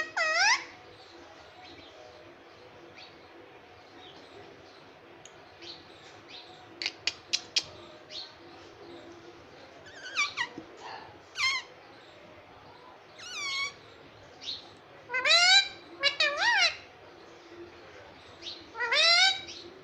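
Indian ringneck parrot giving short squawking calls with bending pitch, scattered through and bunched together about two-thirds of the way in and again near the end. A few sharp clicks come about seven seconds in.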